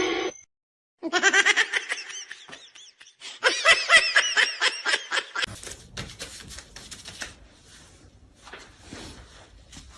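High-pitched laughter in quick pulses, in two bursts that stop abruptly about five seconds in, followed by quieter shuffling noise.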